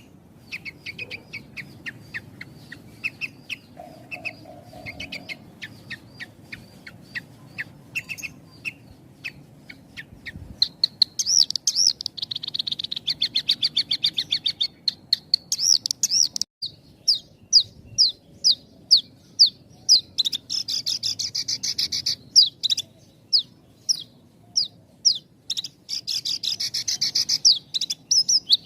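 Javan bush lark (branjangan) singing a fast, near-continuous song of rapid chirps and trills with only brief pauses. It grows louder about ten seconds in, with dense trilling and rows of quick, sharp rising notes.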